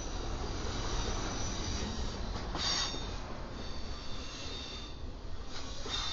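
Freight train rolling by, a steady rumble with high-pitched steel wheel squeal from the cars on the rail. The squeal swells briefly twice, about two and a half seconds in and again near the end.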